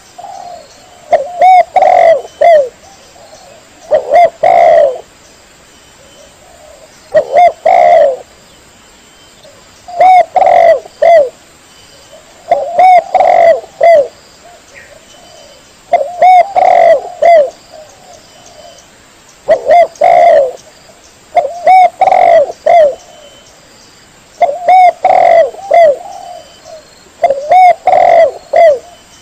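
Spotted dove (tekukur) cooing: about ten loud phrases of several coos each, repeating roughly every three seconds.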